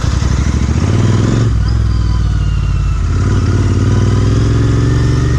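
Royal Enfield Interceptor 650's parallel-twin engine running through a MotoWings performance exhaust while riding. The engine note climbs in pitch, drops off about a second and a half in, then climbs again.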